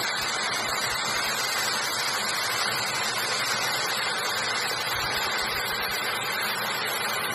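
A steady rushing noise, even and unbroken, with no distinct events.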